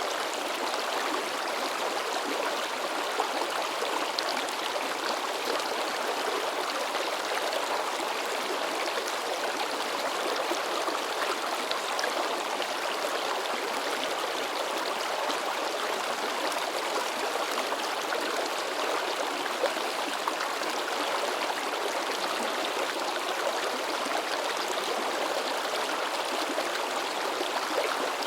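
Mountain stream babbling and splashing over rocks, a steady rush of flowing water with small splashes.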